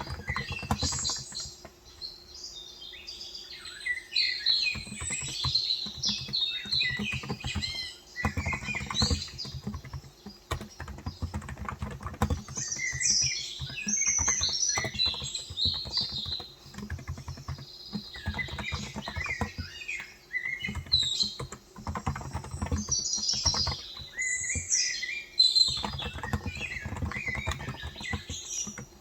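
Typing on a Cox Endeavour contactless (electrostatic capacitive) tenkeyless keyboard with 35 g switches: runs of soft low keystrokes broken by short pauses. Birds chirp and twitter throughout.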